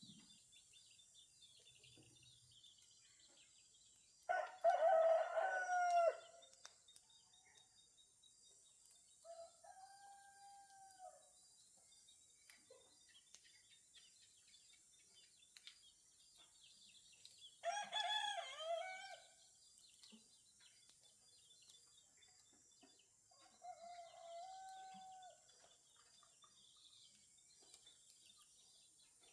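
Roosters crowing at daybreak: a loud crow about four seconds in and another near the middle, with fainter crows from farther off in between and later. Small birds chirp faintly throughout.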